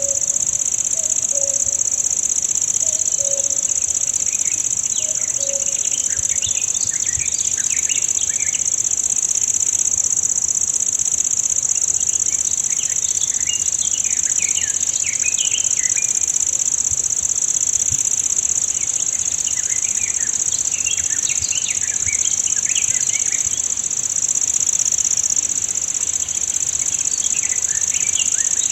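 Forest ambience: a steady, loud high-pitched insect drone runs throughout, with songbirds chirping in quick bouts every few seconds. A low call repeats several times in the first few seconds.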